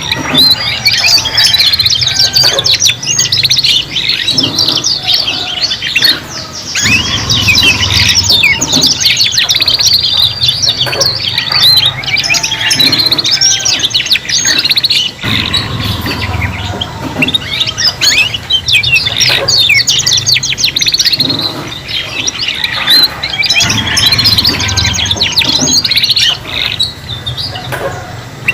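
Several young domestic canaries singing together in a dense, continuous stream of rapid chirps, trills and twittering glides. A low rumble comes and goes every several seconds beneath the song.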